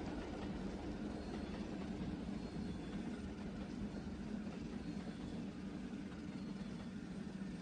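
Train running along the track: a steady low rumble.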